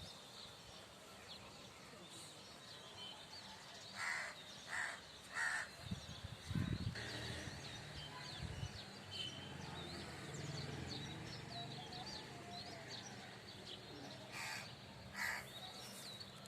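Birdsong in a garden: a larger bird gives loud calls, three in quick succession and then two more near the end, over a steady scatter of small birds' high chirps. A short low thump sounds about halfway through.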